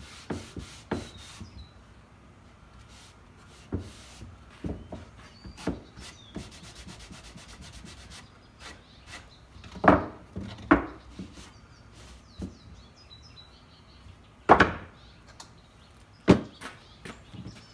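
Small wooden pieces being handled and fitted together on a workbench: rubbing with scattered taps and knocks of wood, the loudest about ten seconds in and again about fourteen seconds in, and a quick run of fine clicks around six seconds.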